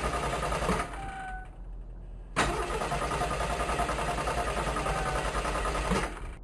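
Car engine being started with the ignition key, a fast, even low pulsing. It jumps suddenly louder about two and a half seconds in and drops away shortly before the end.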